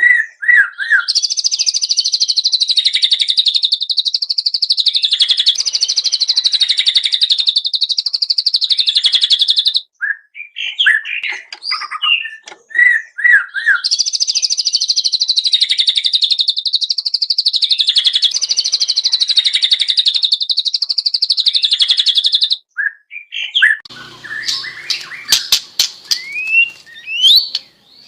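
White-rumped shama (murai batu) singing its rapid-fire 'tembakan' song: two long, very fast high trills of about eight or nine seconds each, with shorter varied whistled phrases between them. Near the end the song breaks into scattered notes and a run of sharp clicks.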